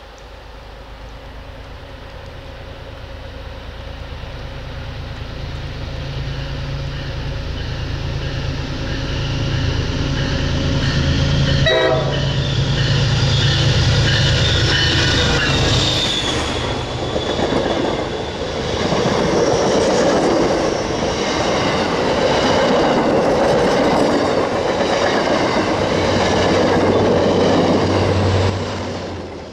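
MBTA commuter train's diesel locomotive approaching and passing, its engine rumble growing louder, the horn sounding as it nears and dropping in pitch as the locomotive goes by. A sharp clank about twelve seconds in, then the bi-level passenger coaches rush past with wheel clatter.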